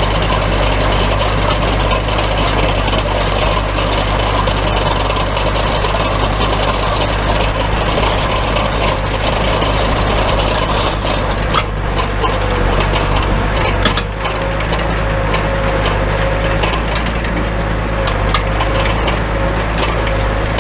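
A small John Deere tractor's engine runs steadily while the New Holland 254 tedder rake behind it works through the hay with a continuous clatter of tines and rattling. A faint steady whine joins in about two-thirds of the way through.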